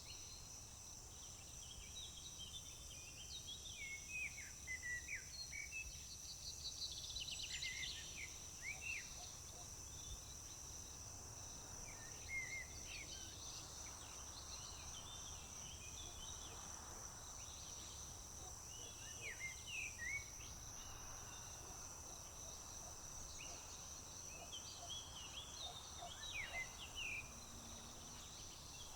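Several songbirds singing short, varied phrases on and off over a steady, high-pitched chorus of crickets.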